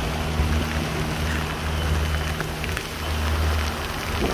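Heavy rain pouring onto a sailing yacht, a steady dense hiss, over the steady low hum of the yacht's engine as it motors with its sails furled.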